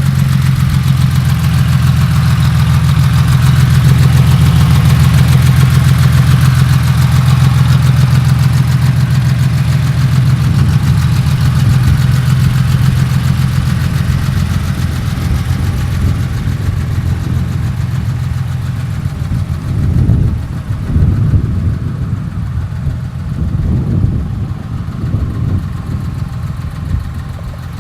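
A 1971 Porsche 911T's 2.2-litre air-cooled flat-six idles through a merge-collector 904-style exhaust with 38 mm headers and a 43 mm muffler, giving a steady deep hum. Near the end there are two short rises in engine sound.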